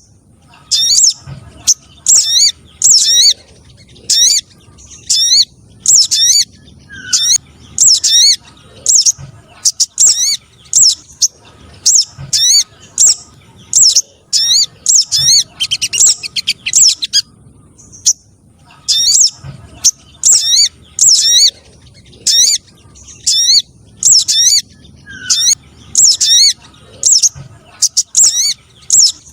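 Recorded spiderhunter (sogon) calls used as a lure for wild birds. A long, rapid series of short, sharp, high notes, a little more than one a second, breaks off briefly twice.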